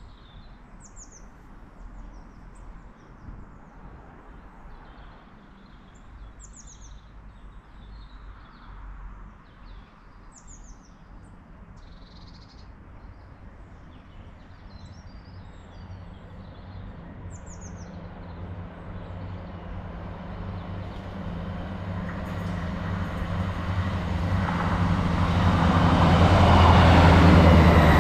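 Small birds chirp a few times over quiet open-air ambience. Then a GWR diesel multiple-unit passenger train approaches, and its low engine hum and rail noise build steadily through the second half until it is loud as it passes.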